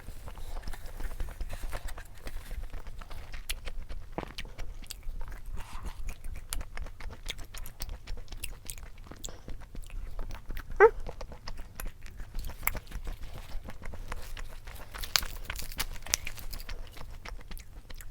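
Close-miked chewing and eating: a steady run of small wet mouth clicks and crunches. About eleven seconds in comes one short rising squeak, the loudest sound.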